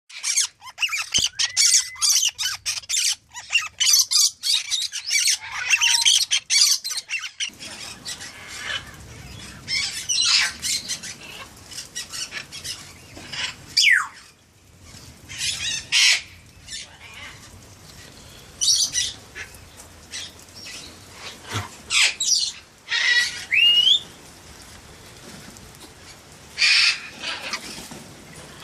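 Parrots squawking: a dense run of harsh calls for the first seven seconds or so, then scattered squawks and a few rising whistles over a steady hiss of rain.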